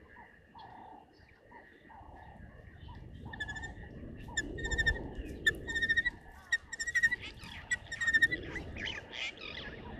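Wild birds calling: a soft low call repeated about twice a second at first, then a quick run of sharp, ringing chirps from about three and a half seconds in. A low rumble builds underneath from about two seconds in.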